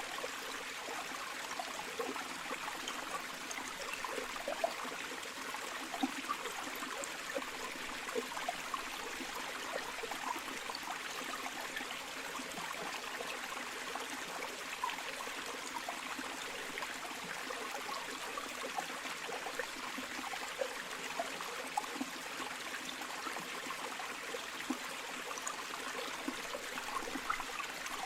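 Flowing river water running steadily over stones, with small gurgles and splashes.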